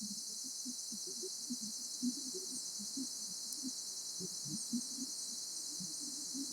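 Outdoor field ambience: a steady high hiss with a fast, even pulsing trill running through it, under irregular soft low sounds and a few faint short high chirps.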